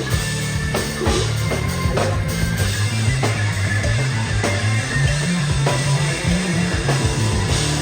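Live rock band playing: a bass line and drum kit keeping a steady beat, with amplified guitar over the top.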